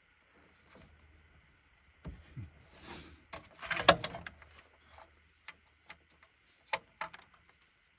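Rustling, scraping and knocks of hands and tools working on engine parts, loudest just before halfway, then two sharp clicks near the end.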